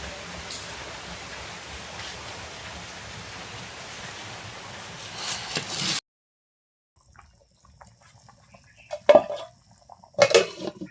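Rain falling steadily, an even hiss that stops abruptly about six seconds in. After a second of silence a quieter scene follows, with two loud sudden knocks or splashes near the end.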